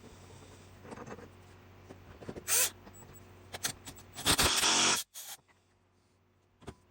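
A few short scrapes and clicks, the longest and loudest scrape coming about four seconds in and lasting under a second.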